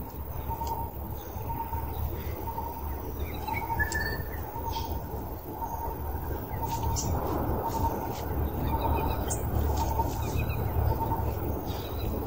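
Birds calling: one bird repeats a short, low note over and over, about one and a half times a second, while others give scattered brief high chirps. A steady low rumble runs underneath.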